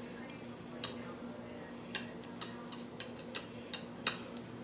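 Light, scattered clicks and taps of cutlery against a dish as a piece of cake is worked loose, about nine in all, over a faint steady hum.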